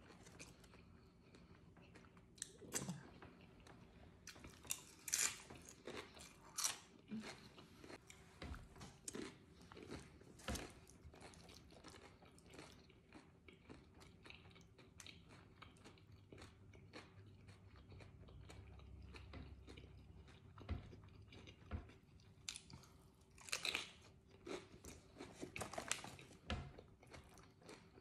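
Close-up chewing and crunching of tortilla chips loaded with burrito-bowl food, with sharp crisp crunches coming irregularly between softer chewing.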